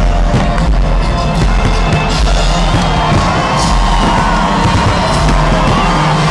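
Fireworks banging and crackling over a crowd cheering and shouting, with music playing.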